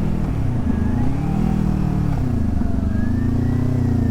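Kawasaki Z400 parallel-twin engine, its revs rising and falling in repeated swells as the motorcycle slows to pull over.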